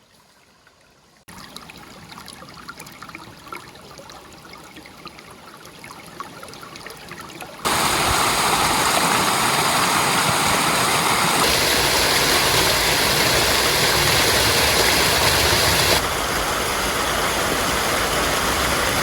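Rushing water of a mountain stream or waterfall: a steady rush with scattered small clicks at first, jumping abruptly much louder about a third of the way in and staying loud and even, with sudden level steps like cuts between shots.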